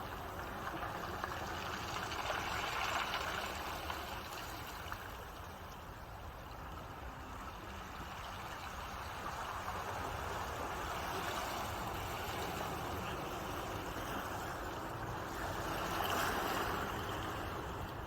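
Ocean waves washing ashore as a steady rush of surf. It swells and fades in slow surges, cresting about three seconds in, again around the middle, and near the end.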